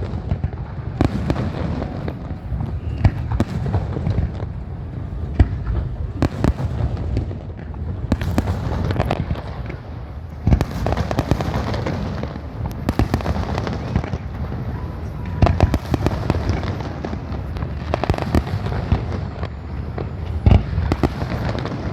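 Fireworks going off in a continuous barrage: many sharp bangs and crackling pops at irregular intervals, over a steady low rumble.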